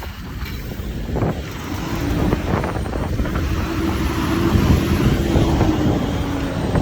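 Mack side-loader garbage truck running, its sound growing louder over several seconds, with a faint steady whine. Heavy wind buffets the microphone.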